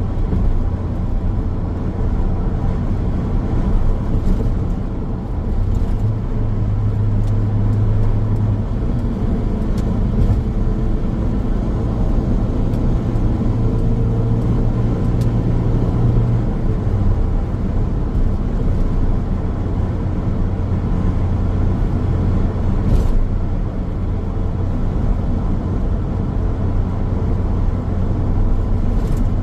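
A car driving along a road: steady tyre and road noise under a low engine hum. The hum grows stronger from about six seconds in and eases back after about sixteen seconds.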